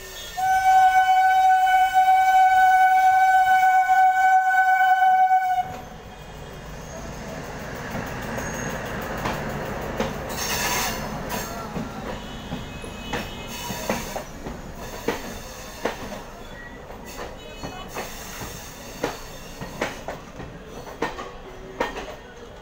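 A train horn sounds one long, steady, loud blast of about five seconds. Then a DEMU passenger train rolls past on the next track, rumbling, its wheels clicking over rail joints, with a brief squeal about halfway through.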